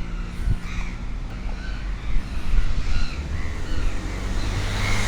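Crows cawing repeatedly, short calls coming every half second or so, over a steady low rumble of street traffic.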